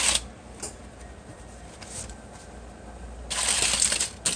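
A short rustle, a quieter stretch, then about a second of dense, crinkly rustling near the end that finishes in a sharp click: handling noise.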